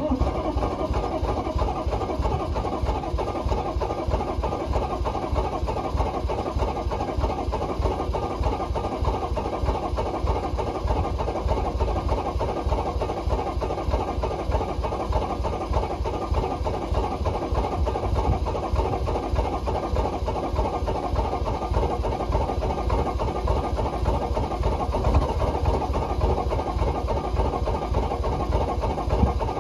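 6.5-litre Detroit Diesel V8 idling on a cold start, a steady, even diesel clatter.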